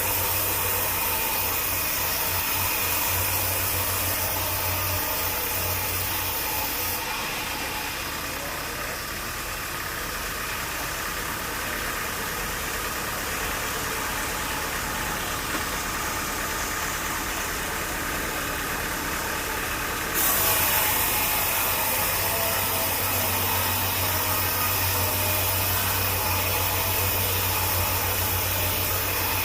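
Sawmill machinery engine running steadily. Its sound shifts abruptly about 7 seconds in and again about 20 seconds in.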